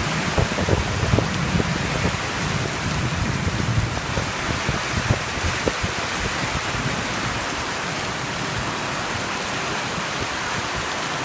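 Heavy rain pouring down steadily in a thunderstorm, with a low rumble over the first few seconds that fades away.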